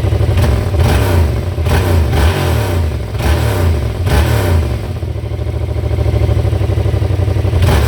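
Yamaha XSR700's 689 cc parallel-twin engine running through an exhaust with holes drilled in it. It takes a run of quick throttle blips in the first half, then idles, with one more blip near the end.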